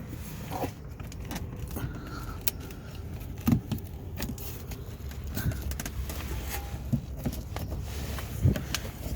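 Scattered plastic clicks and knocks from a 2019 Corolla hatchback's fake exhaust tip trim as it is wiggled and pulled loose by hand from the rear bumper, its clips released.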